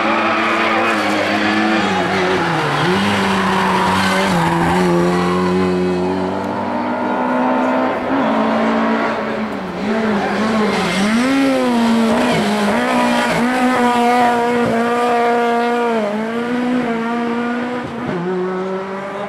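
Lada rally car's four-cylinder engine revving hard through corners, its pitch rising and falling again and again as the driver works the throttle, with tyres squealing on the slide in the first few seconds.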